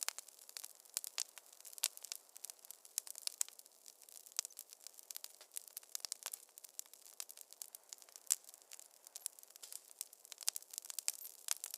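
Wood fire crackling in a fireplace: a dense run of irregular sharp pops and snaps over a faint hiss.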